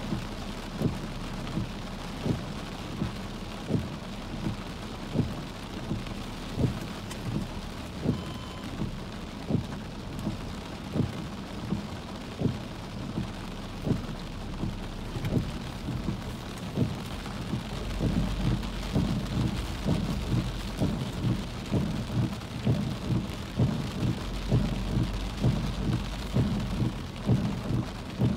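Heavy wind-driven rain on a car, heard from inside, with large drops striking the roof and glass as irregular dull taps over a steady hiss. The rain grows heavier and the taps come faster about two-thirds of the way through.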